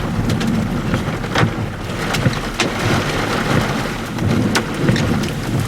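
Heavy storm rain beating on a vehicle, with many sharp separate hits over a steady hiss and a low rumble underneath.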